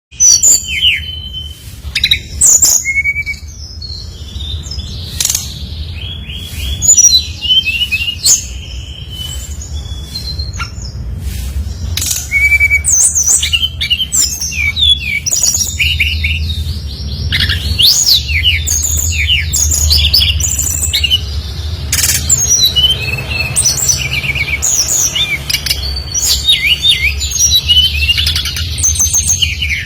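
Songbird known to Indonesian bird-keepers as SRDC singing loudly and continuously: quick chirps, short whistled glides and fast rattling trills following one another with hardly a break, over a steady low hum.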